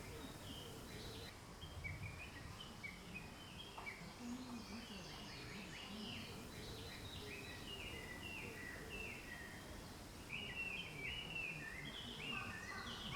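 Small birds chirping in a busy chorus of short, quick falling notes, thickest near the end, over a steady low background noise.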